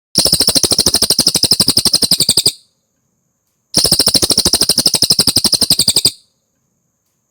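Cililin song: two rapid trills of evenly repeated notes, each lasting about two and a half seconds, with a short pause between them.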